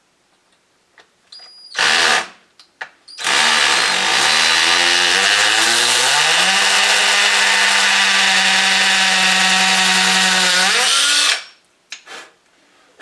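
Cordless hammer drill boring a pilot hole into concrete with a masonry bit: a short blip about two seconds in, then a run of about eight seconds whose pitch sags, climbs and holds steady before it stops.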